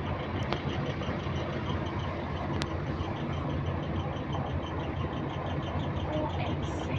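Bus diesel engine running steadily, with a repetitive light clicking, about four to five clicks a second, that keeps time with the engine speed.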